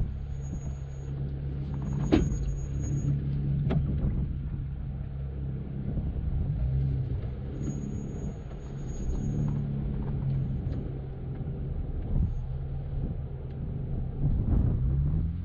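Jeep Wrangler Unlimited Rubicon engine running at low trail speed, its pitch shifting a little, with scattered sharp knocks and clunks from the vehicle crawling over rough ground, the loudest about two seconds in.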